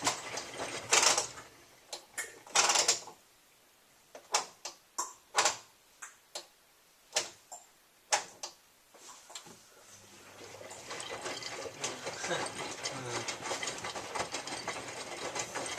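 Miele W3744 washing machine running late in its Minimum Iron cycle. There are two short swishes, then scattered clicks and knocks, and from about ten seconds in a steady mechanical rattle sets in and holds.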